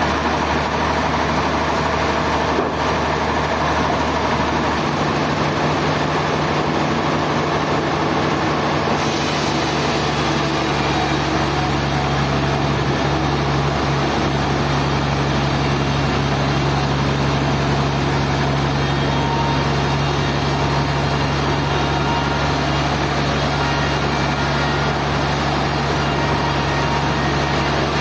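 Sawmill machinery running steadily with a low, even engine hum. About nine seconds in, a hiss rises in the high end and stays.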